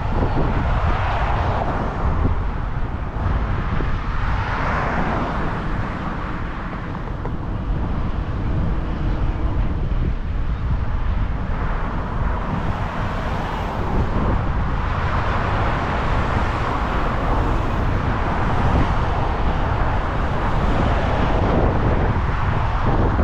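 Car on the move: steady road and wind noise.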